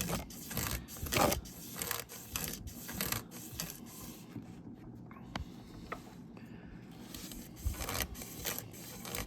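Lubricated 2000-grit wet-and-dry sandpaper, pulled back and forth on a webbing strip, rasping around a crankshaft connecting rod journal in repeated strokes, quieter for a couple of seconds in the middle.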